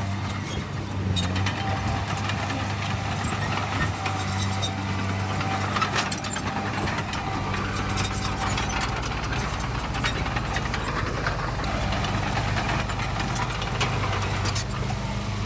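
Heavy diesel engine of earthmoving machinery running steadily at a constant pitch, with scattered metallic clanks and rattles throughout.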